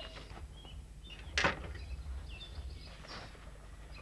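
Birds chirping faintly in the background, with a single sharp knock about a second and a half in.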